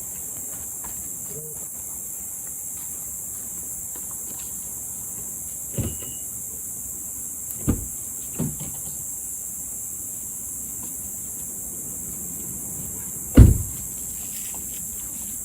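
Steady high chirring of crickets, with four short dull thumps, the loudest about thirteen seconds in.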